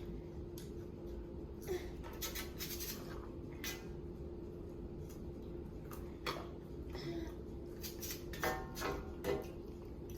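Scattered light clicks, taps and rustles of food packaging and tableware handled at a table during a meal, grouped near the start, once about six seconds in, and several close together near the end, over a steady faint hum.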